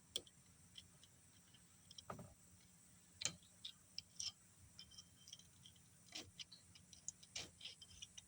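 Faint, irregular small clicks and taps of metal tools and turbocharger parts being handled, over near silence.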